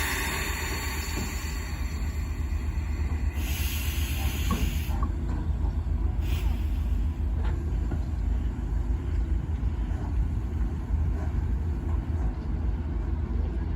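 D51 steam locomotive running with a steady low rumble, broken by short hisses of steam near the start, around four seconds in, and once more a little later.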